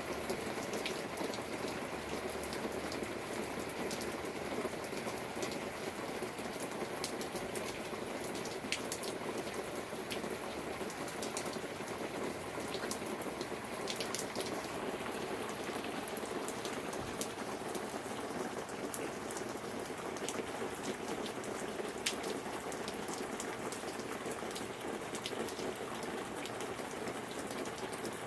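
Steady rain falling during a storm, a constant hiss of rainfall with many sharp individual drops striking close by.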